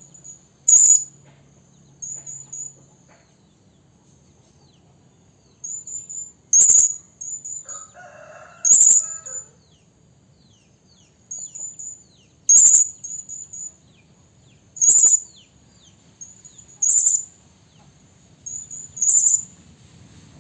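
Serindit (hanging parrot) calling: thin, very high-pitched notes in quick clusters, with a louder piercing call every two seconds or so and a quieter stretch about three to five seconds in. It is a female's call to males, the kind played to lure wild birds.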